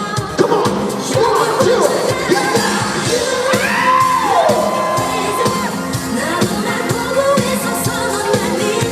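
Live K-pop song: a sung vocal line with sliding, held notes over a band with a steady drum beat.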